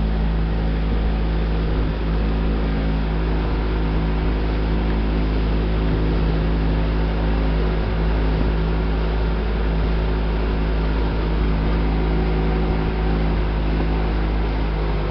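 Motorboat engine running steadily at high throttle, a constant drone with a heavy low rumble.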